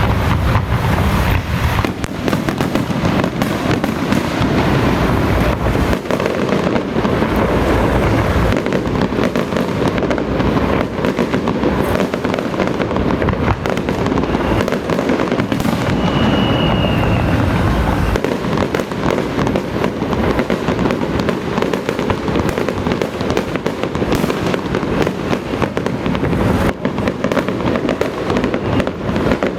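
Dense, unbroken crackling of strings of firecrackers going off at a steady, loud level, with a brief high whistle about halfway through.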